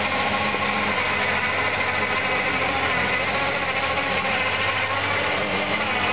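Lada Niva 4x4's engine running steadily as the vehicle crawls through a deep mud hole, its pitch shifting slightly near the end.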